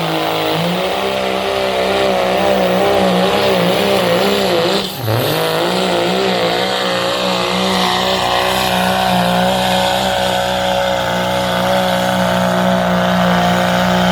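Modified diesel truck engine running at high revs under load as it pulls the sled, holding a steady pitch. About five seconds in, the revs dip sharply for a moment, then climb back up.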